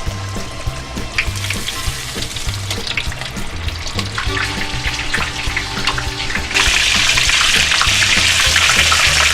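Background country music with a steady bass beat; about six and a half seconds in, a loud sizzle starts suddenly and keeps on as the cornflake-breaded steak goes into the hot oil to deep-fry.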